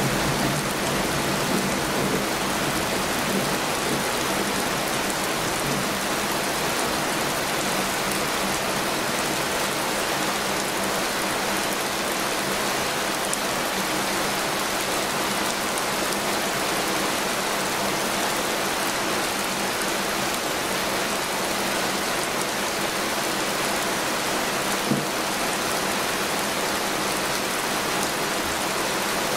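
Heavy rain falling steadily, a dense even hiss of raindrops on surfaces.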